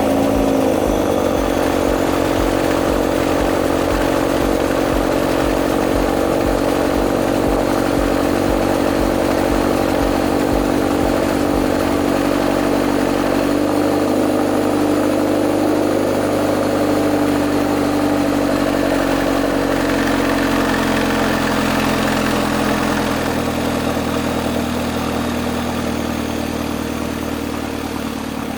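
Hyundai Genesis Coupe's 2.0-litre turbocharged four-cylinder idling high just after a cold start, heard through a JunBL GT catback exhaust with resonator, dual mufflers and quad tips. The idle steps down and the sound gets quieter over the last several seconds as the revs drop.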